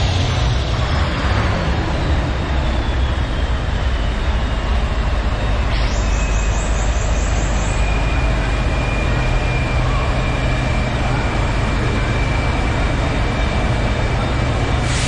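Scania R450 truck's 13-litre straight-six diesel running with a steady low rumble, and a thin high whine that falls slowly in pitch over the first few seconds.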